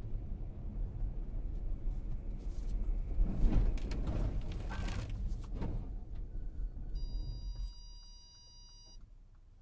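Car driving, with a low road rumble and a cluster of loud knocks and bangs in the middle. Near the end the rumble drops away and a steady electronic beep sounds for about two seconds.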